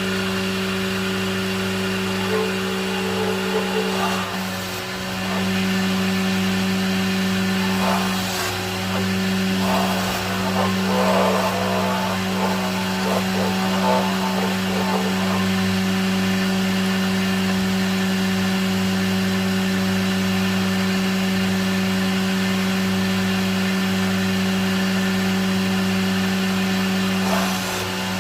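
Electric woodworking power tool motor running at a steady speed with a constant hum. Irregular crackling noise joins it around the middle.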